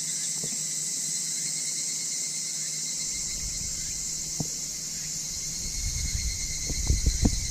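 Insects chirping in a steady high-pitched chorus. A low rumble and a few soft knocks join in over the last few seconds.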